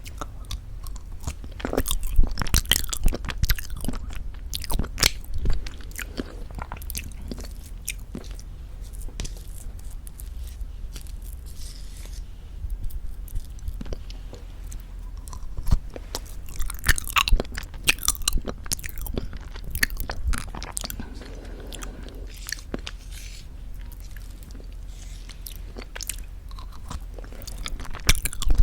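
Close-miked eating of very thick Greek yogurt with honey: wet mouth and chewing sounds, a string of sharp clicks and smacks that come in busier clusters about two seconds in, around five seconds, from about fifteen to eighteen seconds, and again near the end.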